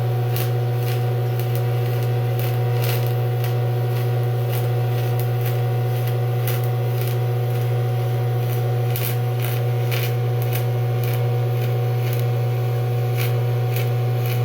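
DCEP TIG welding arc on aluminum rims, fed with flux-coated rods: a steady low electrical buzz with irregular crackling and spitting throughout.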